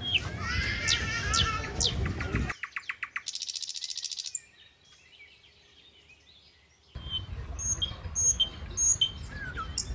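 Wild birds chirping and calling over a low rumble on the microphone. A fast, even rattle comes in after about two and a half seconds. It gives way to a couple of seconds of near silence, then a bird repeats a short high call several times.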